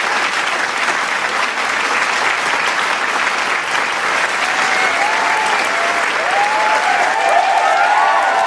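Large crowd applauding steadily, with cheers and shouts rising over the clapping in the second half.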